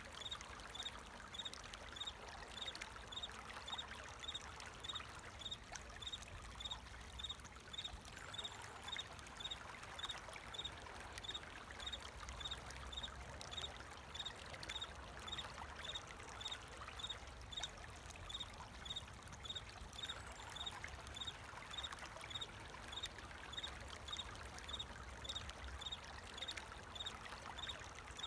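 Flowing water trickling steadily, with a cricket chirping evenly, about three chirps every two seconds.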